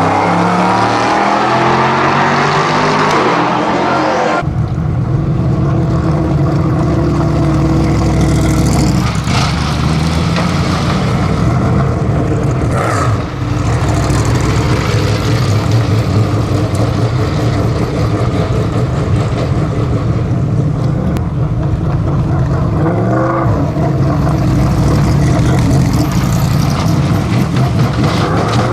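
LMP3 race cars' naturally aspirated V8 engines running hard at racing speed, the pitch rising and falling with throttle and gear changes. About four seconds in the sound changes abruptly to a steadier, deeper engine note with a few brief breaks.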